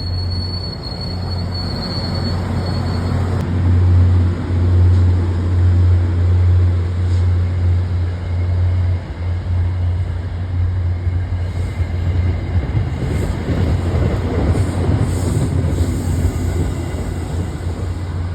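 MBTA commuter rail train running by, with the steady low drone of its diesel locomotive under the rumble of the cars. A thin, high squeal stops about three seconds in.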